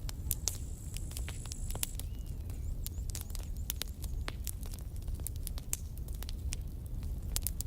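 Campfire crackling, with irregular sharp pops and snaps of burning wood over a steady low rumble of the flames.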